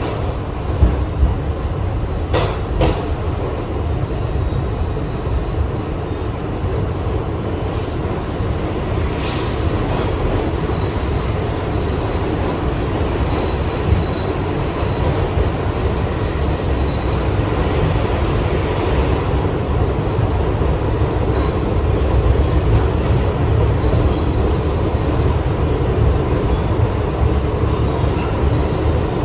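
Kawasaki R62-series subway car running along the track: a steady low rumble of wheels on rail, with a few sharp clicks and a brief high hiss in the first half, growing slightly louder later on.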